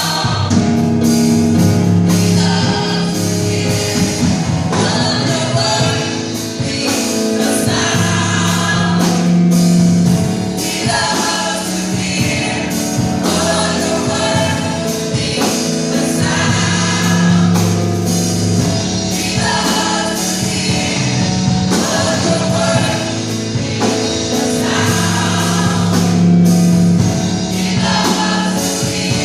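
A gospel choir singing with a band: sung phrases over a steady bass line and regular percussion beats.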